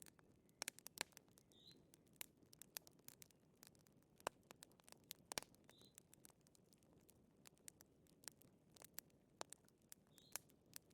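Faint crackling of a wood fire: irregular sharp snaps and pops over a soft low hiss. A faint short high chirp recurs about every four seconds.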